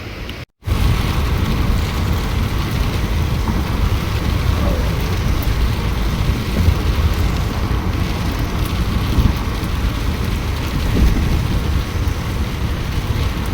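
Storm wind and rain, a loud steady rush with heavy low buffeting on the microphone, starting after a brief cut about half a second in.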